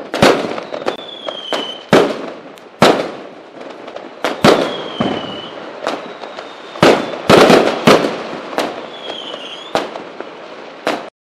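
Fireworks bursting: about ten sharp bangs, each trailing off in crackle, with a few short whistles falling in pitch between them. The sound cuts off suddenly near the end.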